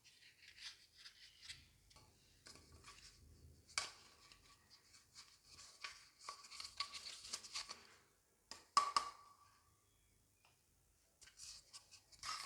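Small toy kitchen pieces and their packaging being handled: light rustling, taps and clicks, with a few short ringing clinks. The loudest clink comes about nine seconds in.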